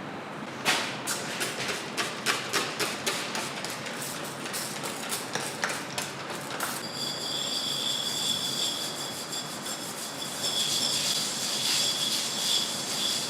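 Sharp knocks of tools on metal, two to three a second for about six seconds, then a steady high-pitched whine with several tones.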